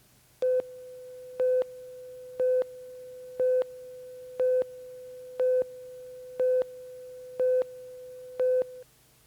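Steady electronic tone with nine louder beeps on the same pitch, one a second. It stops suddenly near the end, like a countdown or test tone ahead of a commercial on a tape.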